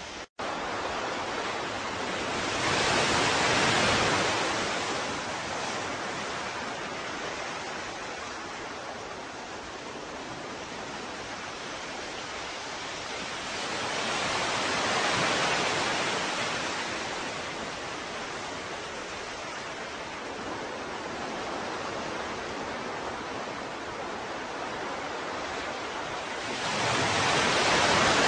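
Ocean surf: a steady rush of water that swells into three breaking waves about twelve seconds apart. The sound drops out for an instant near the start.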